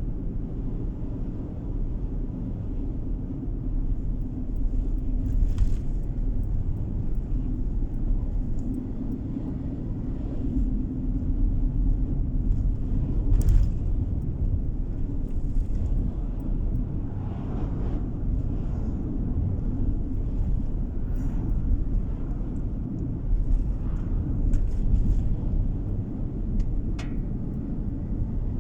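Steady low road rumble of a car driving along, engine and tyre noise, with a few faint ticks and knocks.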